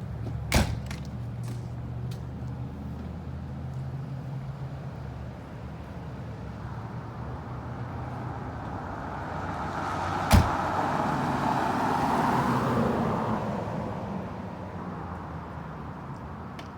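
Fire engine running with a steady low hum, with a sharp knock near the start and another about ten seconds in. A rush of noise swells, peaks around twelve seconds, then fades.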